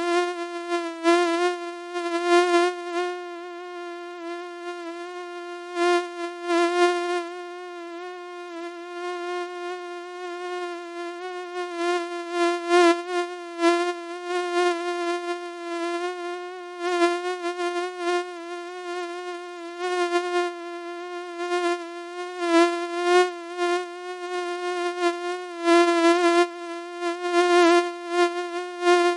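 Mosquito whine: a steady, high buzzing drone from the wingbeat that keeps one pitch while its loudness swells and fades irregularly, as if the insect drifts nearer and farther.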